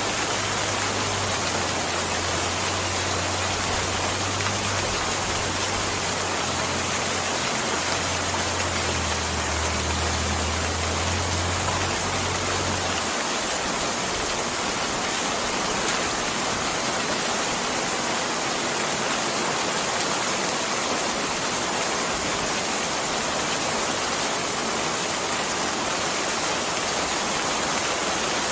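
Steady heavy rain falling, a constant even hiss. A low rumble sits under it for the first half and stops about halfway through.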